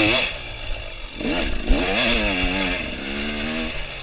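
Dirt bike engine revving up and down under throttle, its pitch rising and falling several times, with a short rush of noise at the very start.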